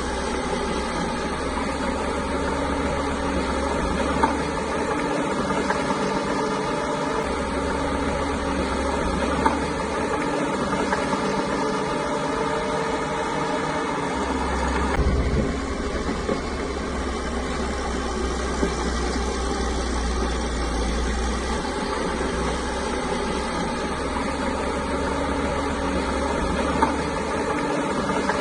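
Caterpillar bulldozer's diesel engine running steadily, with a few short sharp knocks.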